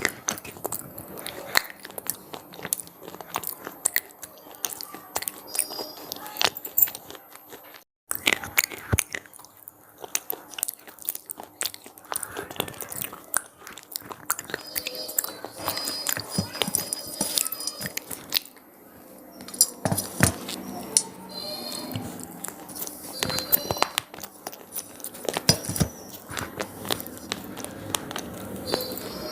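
Crunchy cheese-pizza-flavoured snacks being bitten and chewed close to the microphone: a dense, irregular run of sharp crunches, with a momentary cut-out about eight seconds in.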